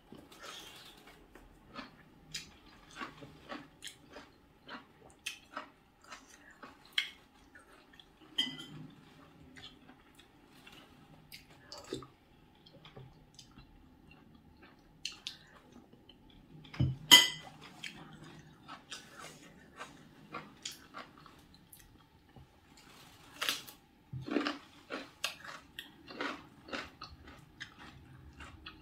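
Close-up sounds of a person eating with her fingers: chewing and mouth noises, with a spoon scraping and clinking against a serving bowl. One sharp clack a little past halfway is the loudest sound.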